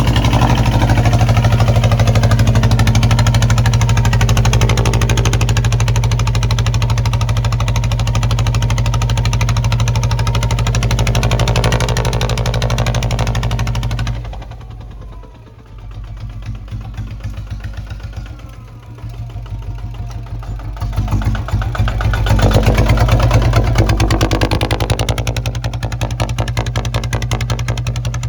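Kubota ZT155 single-cylinder diesel engine running steadily under plowing load. It slows and quietens about halfway through, then picks up again to full speed for the last several seconds.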